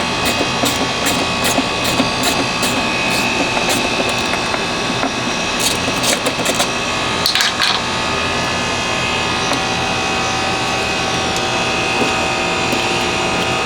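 Hand-tool work in a car's engine bay: a run of regular clicks, about three a second, that stop about three seconds in. A few scattered clicks and a short scraping noise follow around seven seconds, all over a steady mechanical hum.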